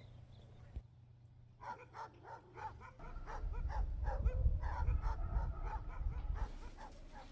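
A dog barking and yapping in a quick series of short calls, with a low rumble underneath from about three seconds in.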